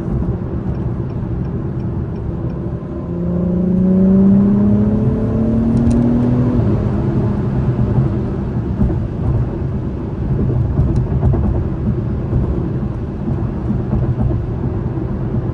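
2021 Acura TLX Type S's turbocharged 3.0-litre V6 pulling under acceleration in a gear held on the paddle shifters, heard from inside the cabin. The engine note rises in pitch from about three seconds in to about six seconds, then settles into a steady drone under constant road and tyre noise.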